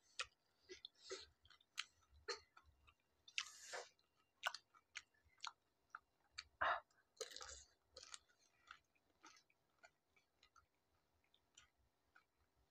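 Two people eating pani puri: quiet, scattered crunching and chewing of crisp hollow puris filled with spiced water, with a few louder bites around four and seven seconds in.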